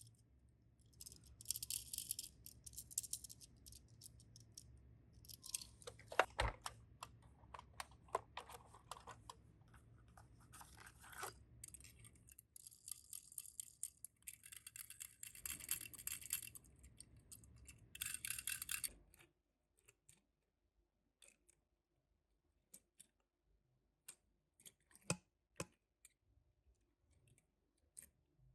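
Small toy cars and their plastic packaging or storage case being handled: irregular rattles, rustles and light clicks, thinning to a few scattered clicks in the last third.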